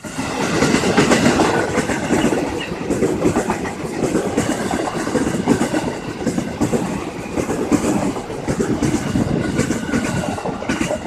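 Train passing close by, loud, its wheels clattering rhythmically over the rail joints.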